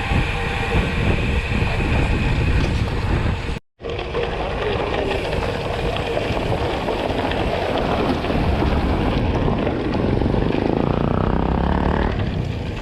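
Steady rumbling road and wind noise of a vehicle on the move, cut off sharply for a moment about four seconds in.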